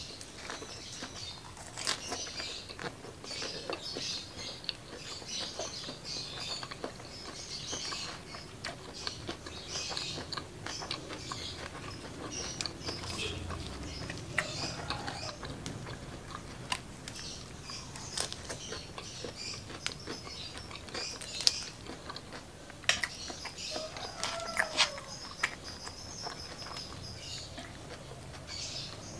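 Close-miked chewing of crisp curly lettuce with chili sambal: a continuous run of moist crunches and small mouth clicks.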